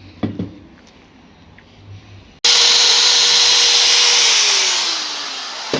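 A few faint knocks, then about two and a half seconds in an electric drill suddenly runs loud at a steady pitch, and its motor winds down over the last second and a half.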